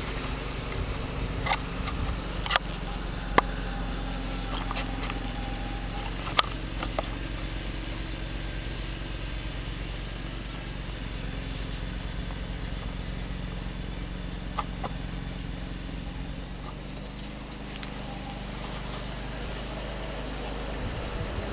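Alpacas humming softly over a steady low hum, with a few sharp knocks in the first seven seconds.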